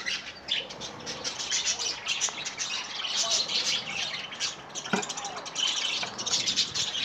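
A flock of budgerigars chattering, with many rapid, high chirps and squawks overlapping without pause.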